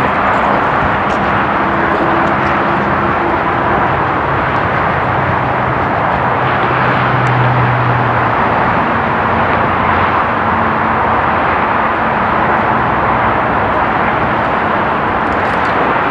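Train running close by: a steady, loud rush with faint low humming tones that come and go.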